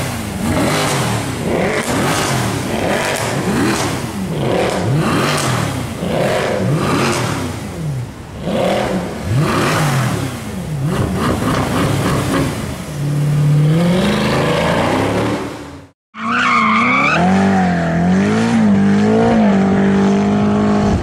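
Mercedes C63 AMG V8 through an IPE aftermarket exhaust, revved up and down over and over as the car slides, with tyre noise. Near the end it climbs steadily, cuts off abruptly, and resumes as a steady drone with a wavering pitch.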